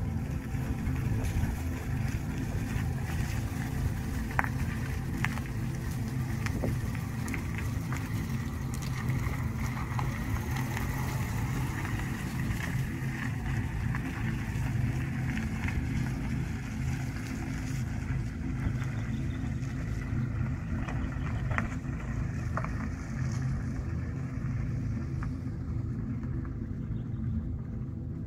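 A car engine running steadily, with a low hum and scattered faint clicks.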